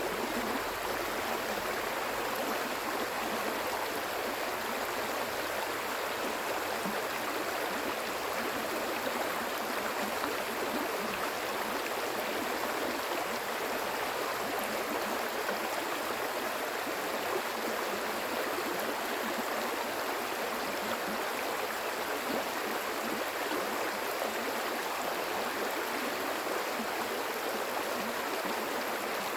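Stream water flowing steadily over rocks, an even rushing and babbling.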